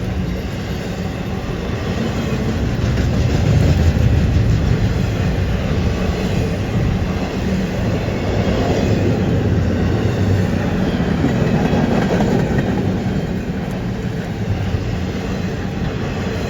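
CN freight train rolling past on a curve: a steady rumble of steel wheels on the rails that swells and eases a little as the cars go by.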